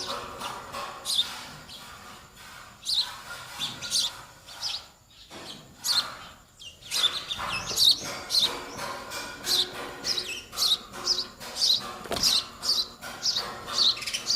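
Baby sparrows chirping: short high chirps, scattered in the first half and then coming quickly, two or three a second, from about halfway through. These are the begging calls of young birds waiting to be fed.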